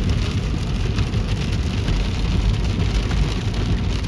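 Heavy rain pelting a car, heard from inside the cabin: a steady dense patter of drops over a low rumble from the moving car.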